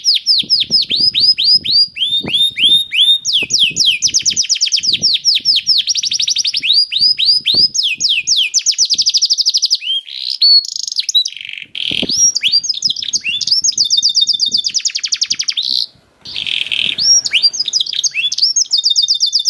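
Canary singing a long run of rapid trills: fast strings of repeated falling notes that change from phrase to phrase, with brief pauses about twelve and sixteen seconds in.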